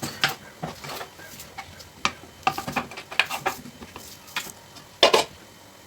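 A scattered series of short clicks and knocks, with one louder, longer knock about five seconds in.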